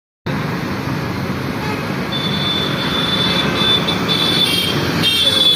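Road traffic noise with vehicle engines running steadily. From about two seconds in, high-pitched horn tones sound on and off.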